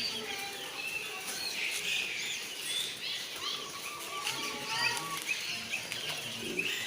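Many caged songbirds chirping and calling over one another: dense, short, high chirps throughout, with a run of lower stepped notes in the middle.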